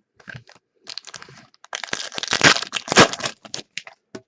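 Crinkling and crackling of a trading-card pack wrapper being handled and opened, loudest in the middle, with small clicks of cards being handled before and after.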